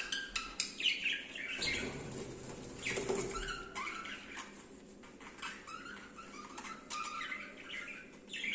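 Small birds chirping, many short quick calls overlapping, with a few sharp clicks among them.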